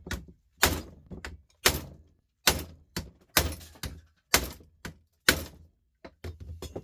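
Hammer striking an electric sander's housing to break it open, about nine heavy blows roughly a second apart, followed near the end by a quick run of lighter taps.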